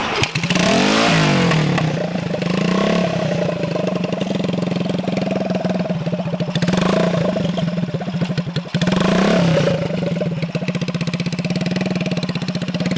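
Custom Honda Megapro motorcycle's single-cylinder engine starting and running, revved up and settling back about a second in, again around seven seconds and around nine and a half seconds.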